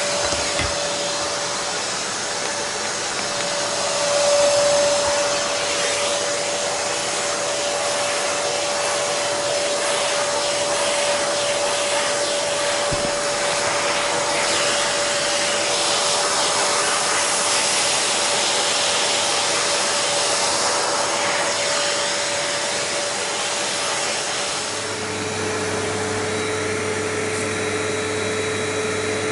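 Vacuum cleaner running steadily with a high motor whine; about 25 s in the pitch of the whine drops and a low hum comes in, as the load on the motor changes.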